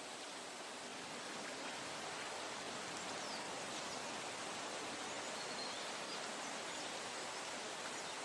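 Steady, even hiss of a natural forest ambience, like running water or rain, with a few faint high chirps around the middle.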